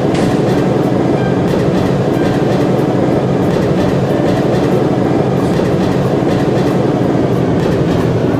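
Toy brick train running along its track: a steady motor hum with irregular light clicking of the wheels over the track.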